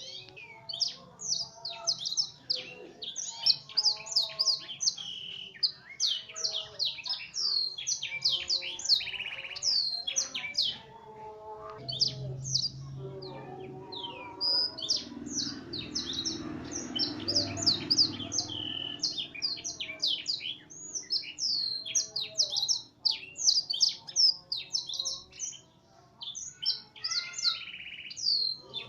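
F1 canary singing continuously in rapid chirps and trills, its song filled with phrases learned from a blackthroat. For several seconds in the middle a low background noise sits beneath the song.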